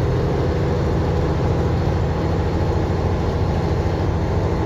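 Semi truck's diesel engine running steadily at road speed, heard inside the cab: an even low drone with a hiss above it.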